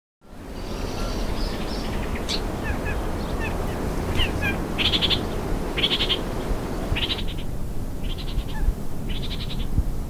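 Bird calls over steady low background noise. A few short chirps come first, then from about halfway a rapid chattering call repeats roughly once a second.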